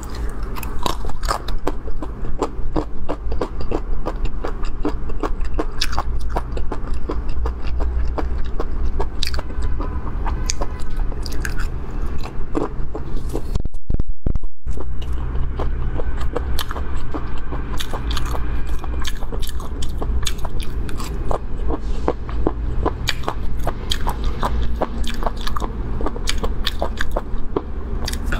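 Close-miked chewing and biting of spicy food in chili oil: dense wet mouth clicks, smacks and crunches over a low steady hum. The sound cuts out briefly about halfway through.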